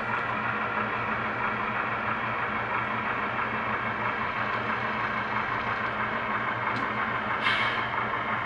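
HO scale model diesel locomotive's DCC sound decoder playing a steady running engine sound through its small speaker as the locomotive backs slowly at low speed step, with a brief hiss near the end.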